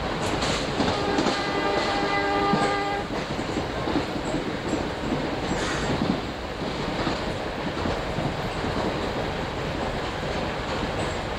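Commuter train running, a steady rumble and rattle heard from inside the passenger car. A train horn sounds once for about two seconds, about a second in.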